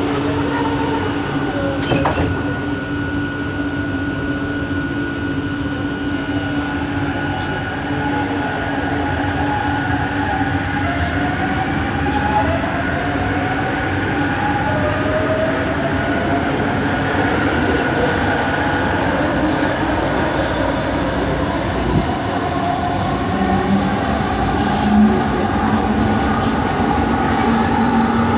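Bombardier Innovia ART 200 metro car heard from inside while running: its linear induction motors give a steady hum over rail and running noise, with several short rising whines in the middle. The uploader calls this motor noise weird.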